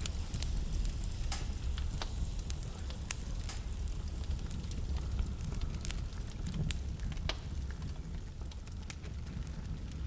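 Wood fire burning in a fireplace: a steady low rumble of the flames with irregular sharp crackles and pops from the burning logs, a handful of them louder than the rest.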